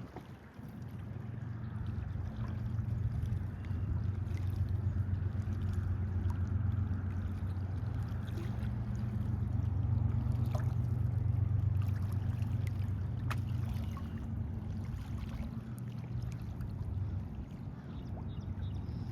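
Water trickling and lapping around a kayak on a river, under a steady low rumble of wind on the microphone, with scattered small clicks.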